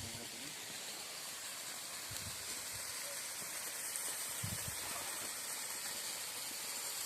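Steady hissing rush of water, the sound of rain or flowing forest water, growing slightly louder about halfway through, with a few soft low thumps.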